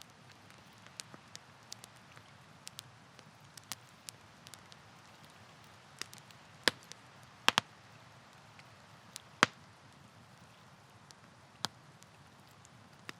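Wood campfire crackling: irregular small snaps and pops over a faint low hiss, with a handful of louder sharp pops in the second half.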